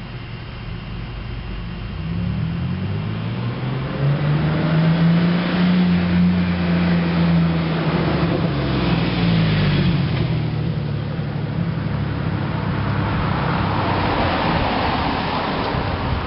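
Blazer truck's engine heard through its exhaust and muffler: the note climbs from a low drone about two seconds in, holds loudest for several seconds, then eases back down. A rushing noise follows near the end.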